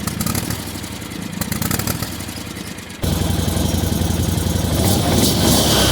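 Engine running with a low, steady note; about halfway through it cuts suddenly to a louder, heavier engine sound with a strong hiss over it.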